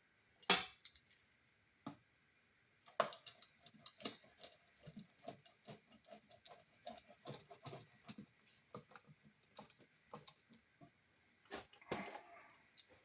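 Mounting screws being driven into a wall outlet and electrical box by hand with a screwdriver: a sharp knock about half a second in, then a long run of small irregular ticks and clicks, several a second, as the screw turns.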